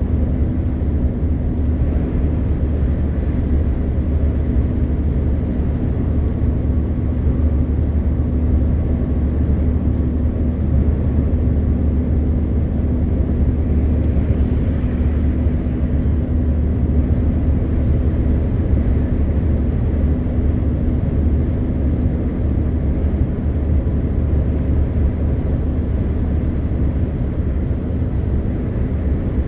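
MAN TGX 520 truck's six-cylinder diesel engine running steadily under way, a low even drone with a steady hum over it and an even wash of road noise.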